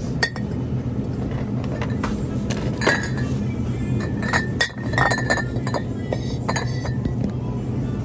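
A run of light, ringing clinks over a steady low hum, bunched in the middle few seconds.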